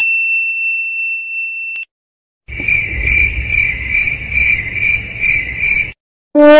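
A high, steady electronic beep lasting about two seconds, then the stock "awkward silence" crickets sound effect: crickets chirping in an even rhythm, about two chirps a second, over a faint night-time hiss for about three and a half seconds.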